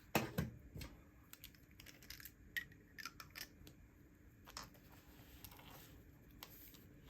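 Scattered light taps, clicks and rustles of paper and stationery being handled on a desk while cut-out images are pasted into a journal. The sharpest tap comes just after the start, with a cluster of smaller clicks in the middle and fewer towards the end.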